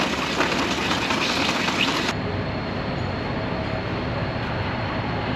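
Steady mechanical din of vehicles running nearby, with no single clear engine note. Its high hiss drops away abruptly about two seconds in.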